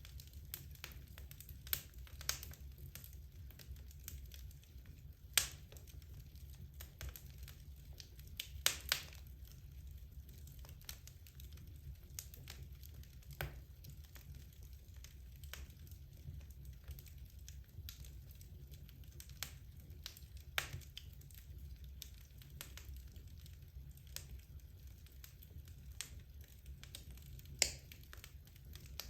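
Wood logs burning in a fireplace, crackling with irregular sharp pops, a few of them louder, over a low steady rumble.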